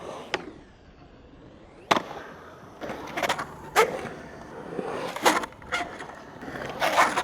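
Skateboard rolling on concrete, with sharp clacks of the board striking the ground as tricks are popped and landed, about four hard impacts and some grinding scrapes.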